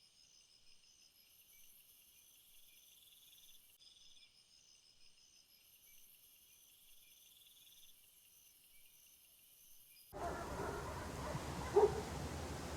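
Faint insect chorus, several high-pitched pulsing trills sounding together. About ten seconds in it cuts abruptly to a louder, noisier recording with two short animal calls near the end.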